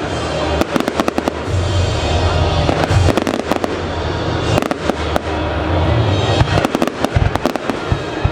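Firework display: a rapid, dense run of crackling pops and bangs from aerial fireworks, with music playing underneath.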